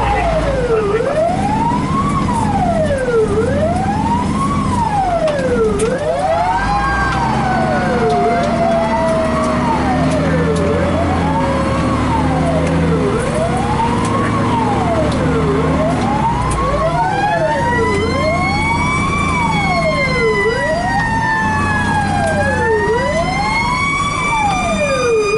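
Fire engine sirens heard from inside the cab: an electronic siren sweeping up and down about every two seconds, with a second, slower siren sliding down in pitch and then winding back up high from about two-thirds of the way in. The truck's engine rumbles underneath.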